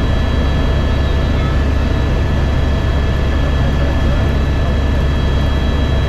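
Helicopter running: a loud, steady low drone of rotor and engine, with a constant high-pitched whine over it.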